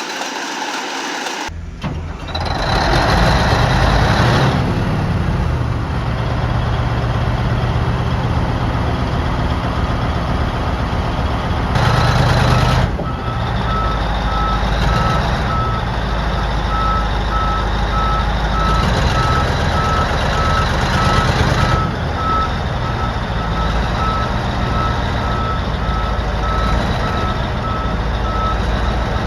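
Heavy diesel engine running with a deep, loud rumble, louder for the first couple of seconds after an abrupt change. About halfway through, a back-up alarm starts beeping steadily at one pitch over it.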